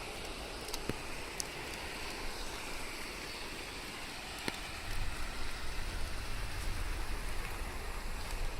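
Steady rain falling, with scattered sharp drop ticks over an even hiss. A low rumble grows louder about five seconds in.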